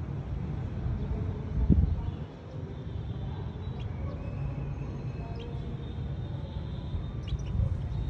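A few faint, short chirps of small birds over a steady low rumble of outdoor noise, with one brief low thud just under two seconds in.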